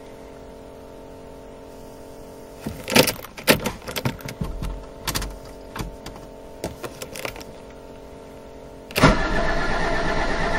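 Mercedes OM603 six-cylinder diesel of a 1989 W124 300TD being started cold: a steady hum, then a few seconds of irregular knocks and coughs, then about nine seconds in it catches and runs loudly and steadily. It is a hard start after three weeks standing, with air in the fuel lines.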